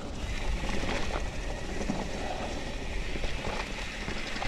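Mountain bike riding fast down a dirt singletrack descent: steady wind rumble on the microphone, with tyre noise and small knocks and rattles from the bike over the ground.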